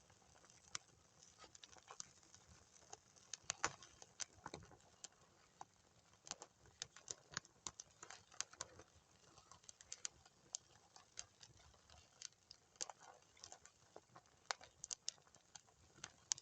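Wood campfire crackling, with irregular sharp pops and snaps from the burning wood over a faint hiss; the loudest snap comes a little over three seconds in.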